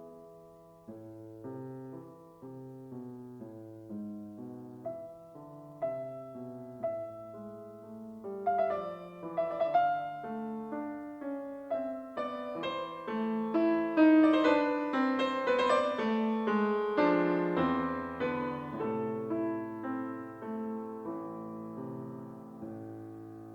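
Piano music: a slow run of single notes and chords that grows louder and fuller about halfway through, then eases off again.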